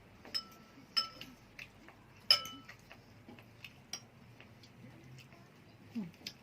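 Cutlery and dishes clinking at a meal: three sharp clinks that ring briefly, the loudest a little over two seconds in, among softer taps and knocks.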